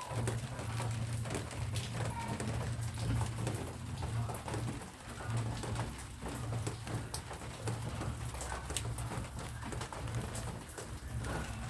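A pigeon cooing in low, repeated phrases, over rain dripping in scattered sharp taps.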